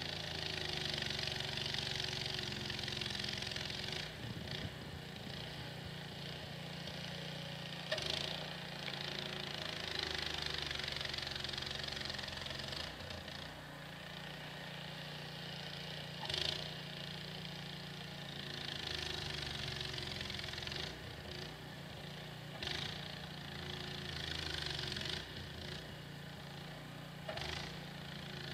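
Snowblower's small engine running steadily under load, with a constant hiss and a few sharp knocks, the loudest about a third and halfway through.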